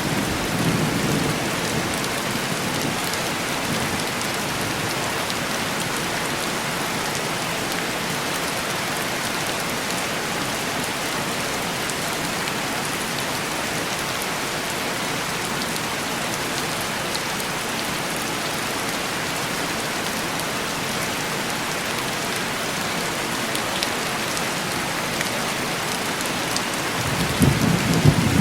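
Steady heavy rain on a window pane, with low rumbles of thunder in the first few seconds and again near the end.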